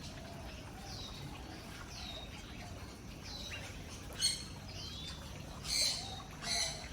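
Several birds calling: a run of short falling chirps, then three louder, sharper calls about four, six and six and a half seconds in.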